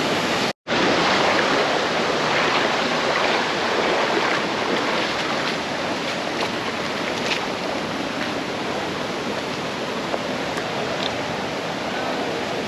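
Creek water rushing steadily over rocks, a constant even hiss, with a momentary dropout about half a second in.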